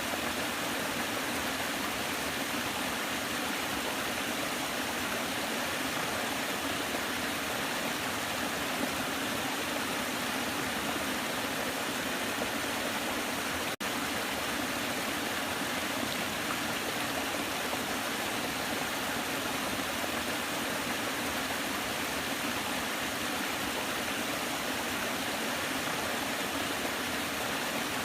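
Waterfall: a steady, even rush of falling water, broken by a split-second gap about halfway through.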